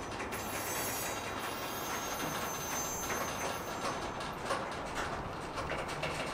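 Train rolling past on the rails: a steady rumble, with wheel clicks that come more often in the second half.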